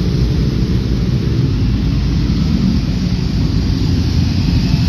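Superbike engines running in the pit lane: a steady, loud low rumble.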